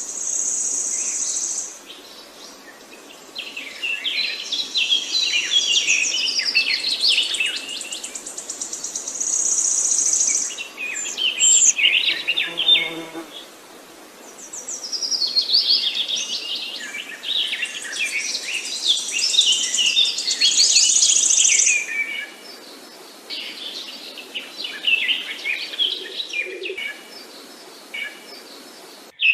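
Songbirds chirping and singing in quick overlapping phrases, with high thin buzzy trills coming and going between them.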